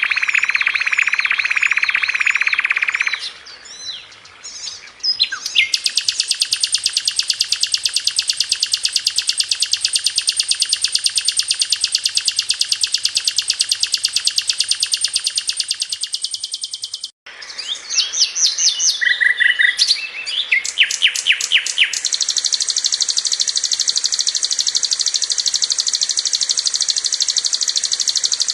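Sikatan londo flycatcher song: long, very fast, tight trills held for many seconds. They break about halfway through for a brief burst of varied short notes, then the rapid trill resumes.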